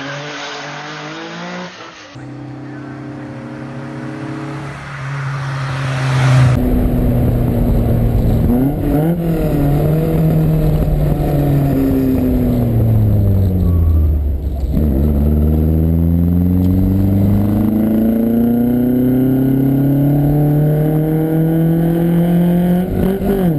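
Lancia Fulvia's narrow-angle V4 engine heard on board, pulling hard in a series of rising runs as it goes up through the gears. It eases off with the pitch falling around the middle, then accelerates again and holds high revs near the end.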